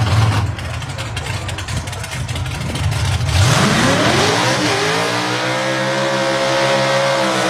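Drag-racing car's engine rumbling roughly at low revs, then revving up about three seconds in, its pitch climbing quickly and then holding high and steady as the car runs hard down the strip.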